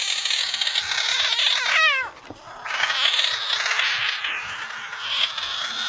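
A cat caterwauling: a harsh, hissing yowl, broken about two seconds in by a short wavering cry that falls steeply in pitch.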